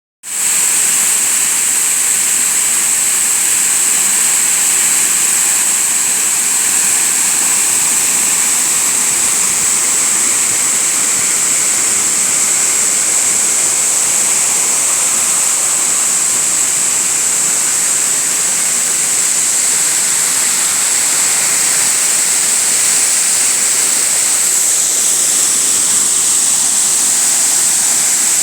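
Waterfall: a steady, unbroken rush of falling water with a strong high hiss.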